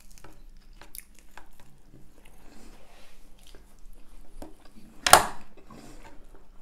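Close-up chewing and biting of fast food, a chicken nugget and a double Big Mac, with many small wet mouth clicks. About five seconds in there is one loud, short smack.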